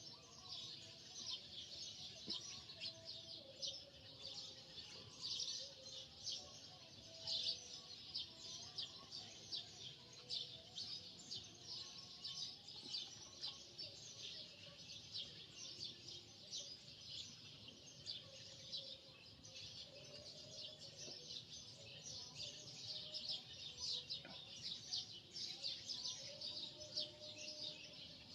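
Many small birds chirping continuously, a dense high-pitched chatter with faint wavering calls beneath it.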